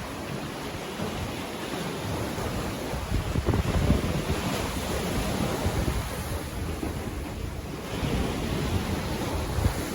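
Sea waves washing onto the beach, a continuous surf with a louder surge about three to four seconds in and another near eight seconds. Wind buffets the microphone in the low end.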